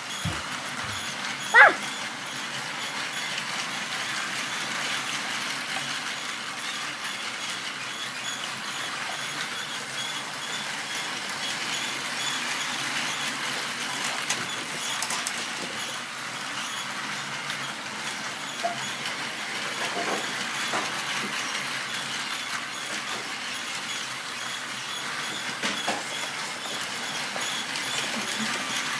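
Battery-powered Plarail toy trains running on plastic track: a steady motor whir and the rattle of the wheels. A short, loud, pitch-gliding sound comes about a second and a half in.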